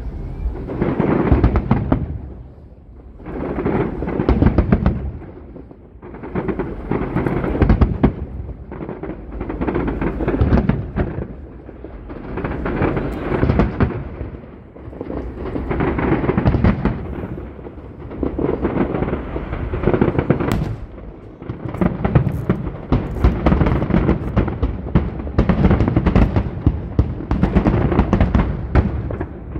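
Aerial fireworks display: dense volleys of shell explosions and crackle, swelling and easing in waves about every three seconds.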